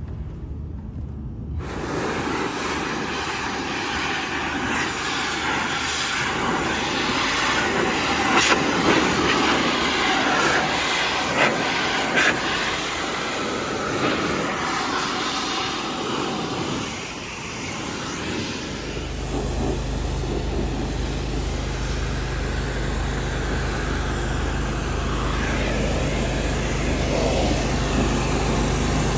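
Pressure washer spraying the gutters and roof overhead, a steady rushing hiss with a few sharp clicks. About two-thirds of the way through, a steady low motor hum takes over.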